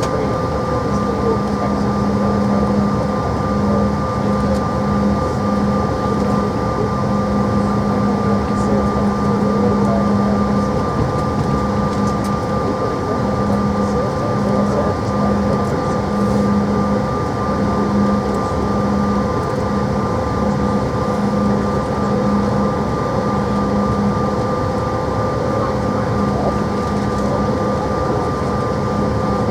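Cabin noise of a Bombardier CRJ700 regional jet, its rear-mounted GE CF34 turbofans running at low thrust before takeoff: a steady rumble with a held engine whine and a low hum that comes and goes.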